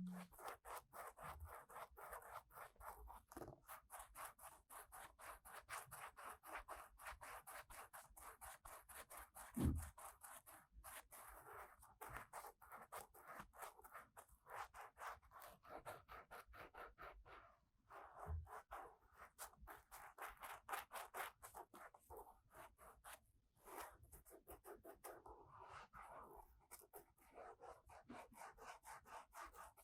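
Faint, quick, even scratching strokes of an ear-cleaning tool worked in the ear of a 3Dio binaural microphone, with a couple of soft bumps.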